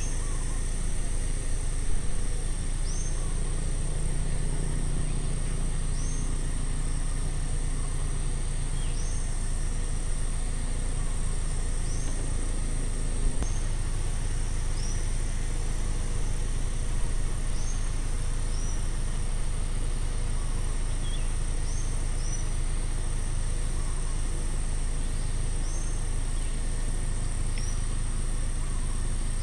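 Outdoor ambience: a bird repeating a short, high, hooked call every second or two over a steady high insect drone and a constant low rumble.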